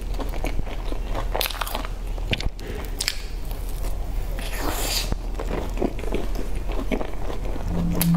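Biting and chewing crumb-topped cream puffs: crisp crackling crunches of the sugary crust mixed with soft, wet chewing, with a heavier crunch about three to five seconds in. A brief low hum near the end.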